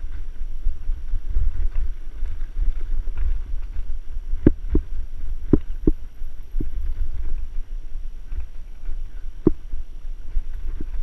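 Wind buffeting the microphone as a mountain bike is ridden, a steady low rumble, with several sharp knocks and rattles from the bike over bumps, a cluster about four to six seconds in and another a few seconds later.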